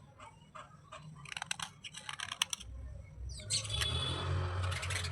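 Brittle slate pieces clicking and cracking in a string of separate sharp snaps, then a longer, denser gritty crunching about three and a half seconds in.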